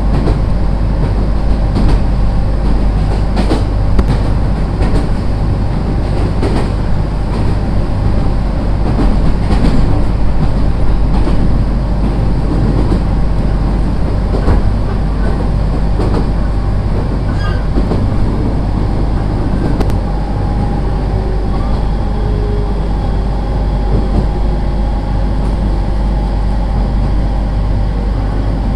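Running noise inside a JR East 701 series electric train: a steady low rumble with occasional clicks of the wheels over rail joints, and a faint steady tone joining after about twenty seconds.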